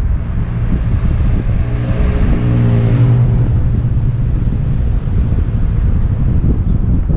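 Wind buffeting a helmet-mounted action camera while cycling, with a motor vehicle passing: its engine note and tyre hiss swell to a peak about three seconds in and fade away.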